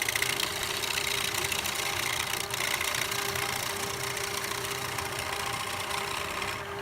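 Wood lathe running steadily with a dense hiss of the cutter shaving wood over a steady motor hum; the hiss drops away shortly before the end.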